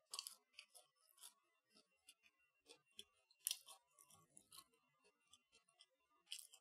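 Close-miked chewing of a crumbed, air-fried mini chicken kiev: quiet, irregular crisp crackles and wet mouth clicks, the loudest about three and a half seconds in.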